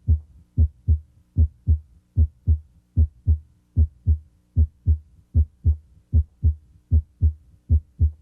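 Normal heart sounds heard through a stethoscope at the mitral area (the cardiac apex): a steady run of paired lub-dub beats, a little more than one beat a second. The first sound of each pair (S1) comes from mitral valve closure and is usually the louder one at this spot.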